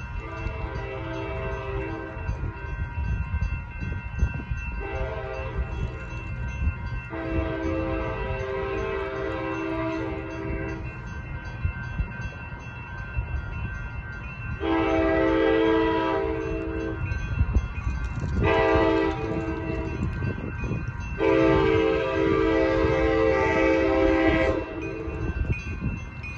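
Altamont Corridor Express commuter train's horn blowing for the crossing. Fainter blasts come first, then a loud long, short, long pattern in the second half, over crossing bells ringing and the low rumble of the train.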